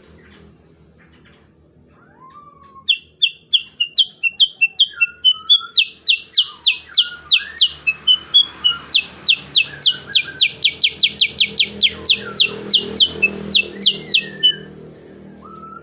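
Cucak kurincang, a bulbul of the kutilang family, singing a long run of sharp, rapidly repeated falling notes, the 'tembakan' (shooting) style. The notes come a little faster in the middle and stop shortly before the end, with softer slurred whistles between them.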